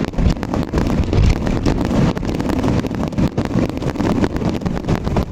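Fireworks barrage: many firework bursts and crackles overlapping in quick succession into a continuous din of sharp bangs with heavy low booming.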